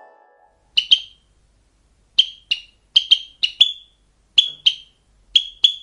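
Sparrow chirping: about a dozen short, high chirps, many in quick pairs.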